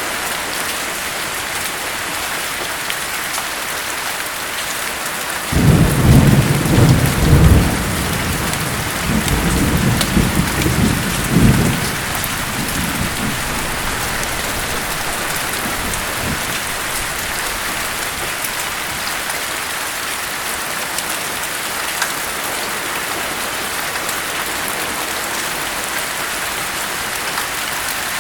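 Steady rain falling, with a roll of thunder about five seconds in that rumbles in two swells for around six seconds before fading back into the rain.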